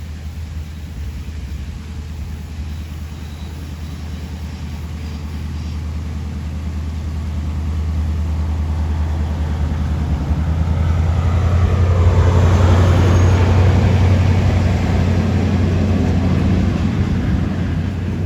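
Diesel locomotive running past with a steady low engine hum, growing louder as it approaches to a peak about two-thirds of the way through, then easing slightly as it moves on.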